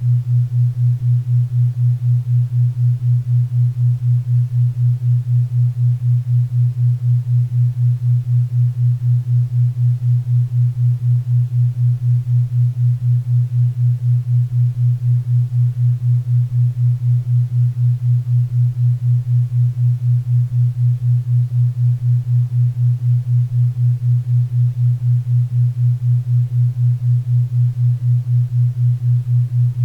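Synthesized 4 Hz theta-wave brainwave-entrainment tone: a low hum pulsing evenly about four times a second, over a faint bed of pink and brown noise.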